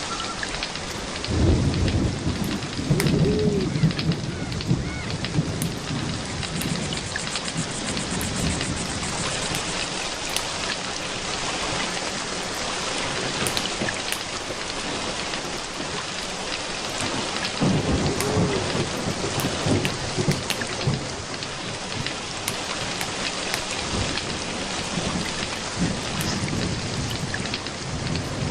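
Steady rain falling, with two long low rolls of thunder, one starting about a second and a half in and another a little past the middle.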